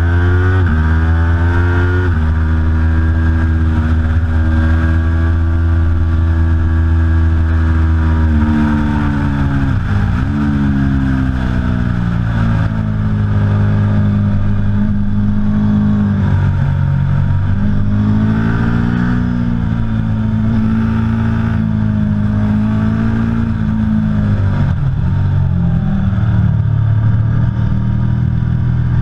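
Aprilia Tuono V4 Factory's V4 engine running hard on track. Its pitch holds high, steps at gear changes, and drops sharply about ten seconds in. After that it rises and falls repeatedly as the rider brakes and accelerates.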